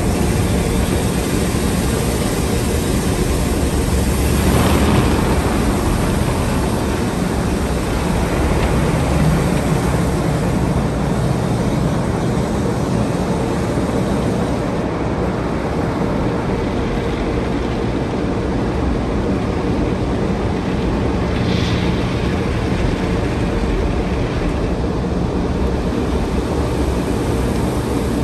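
Automatic car wash machinery running, very loud: a steady, dense rushing noise, swelling briefly about five seconds in and again a little past twenty seconds.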